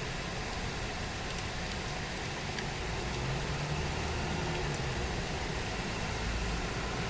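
Steady heavy rain falling, an even hiss with a few faint drip ticks. A low mechanical hum rises under it about three seconds in.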